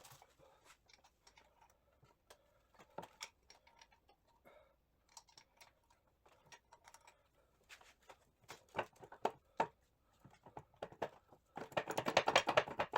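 Small metal gearbox parts and hand tools clicking and clinking as they are handled during transmission disassembly, ending in a quick run of rapid clicks near the end.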